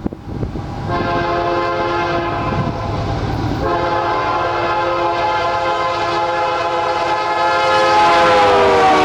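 Freight locomotive's multi-note air horn sounding, a shorter blast and then a long one that drops in pitch near the end, over the rumble of the passing train.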